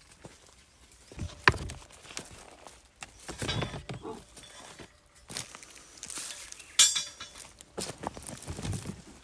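Hard objects being handled: a few sharp clinks and knocks, loudest about one and a half seconds in and again near seven seconds, among scuffing like footsteps.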